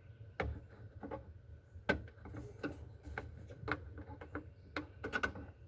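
Irregular sharp clicks and taps of hand tools working on fasteners in a car's body, about one or two a second, over a steady low hum.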